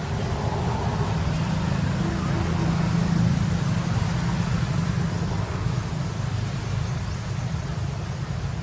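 A steady low rumble, slightly swelling a few seconds in.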